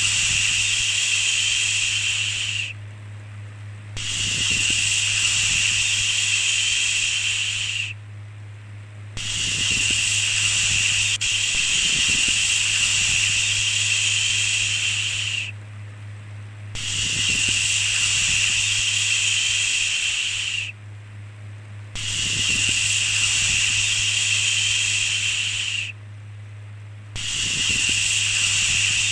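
A repeated long "shhh" shushing sound. Each hiss lasts about four to six seconds, with a pause of about a second between them, over a steady low hum.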